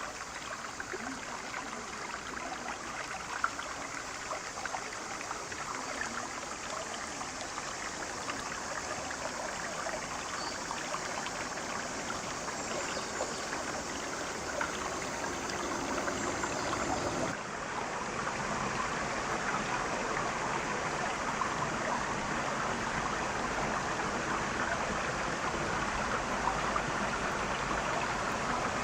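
Mountain river flowing steadily, a constant rush of water. About two-thirds of the way in the sound shifts suddenly and is a little louder afterwards.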